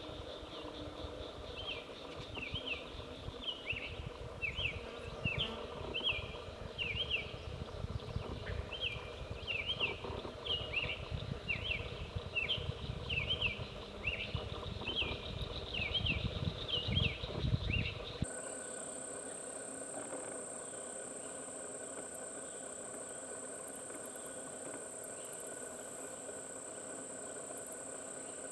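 Summer tanager singing two long runs of short, robin-like rising-and-falling notes over a low rumble. Just after the middle the song cuts off, and a steady high-pitched insect drone takes over.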